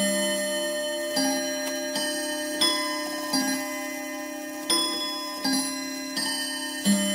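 Domestic chiming clock playing its chime tune: bell-like notes struck about every 0.7 s in phrases of four, with a short pause between phrases, each note ringing on under the next.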